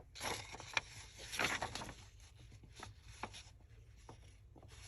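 Paper being handled on a work table: soft rustles and a few light ticks and taps.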